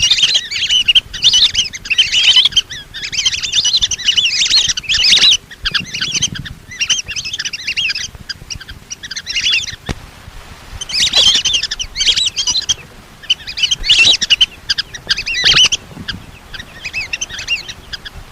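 Lesser whistling ducks calling: many shrill, chattering whistles from several birds at once, coming in bursts a second or two long with short pauses between.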